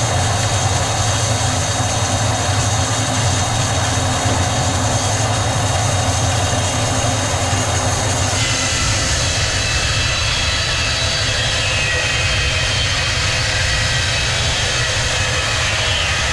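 Multi-blade sawmill machinery running, a loud steady mechanical drone with a deep hum and high whining tones; the sound changes abruptly about eight seconds in.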